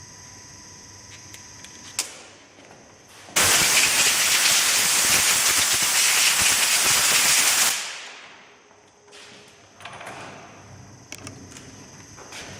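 A sharp click, then a loud hiss of escaping air or spray that starts suddenly a little over three seconds in, holds for about four seconds and fades away, followed by a few light clicks.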